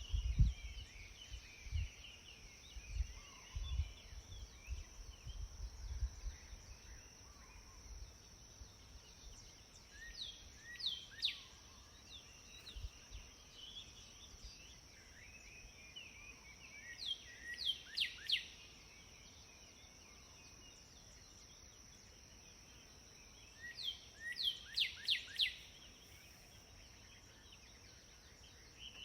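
Wild songbirds singing, with three bursts of quick, falling whistled notes about ten, seventeen and twenty-four seconds in, over scattered softer chirps. A steady high-pitched insect drone runs underneath, and a few low thumps come in the first several seconds.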